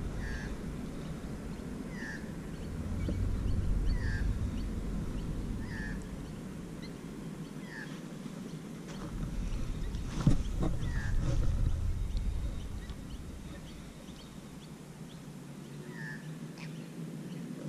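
A bird gives a short call over and over, one note every second or two, over a low rumble that swells and fades, with a single sharp click about ten seconds in.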